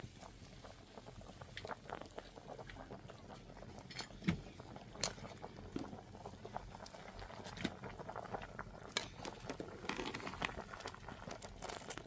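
Irregular light clicks and knocks over faint rustling, the loudest knock a little over four seconds in.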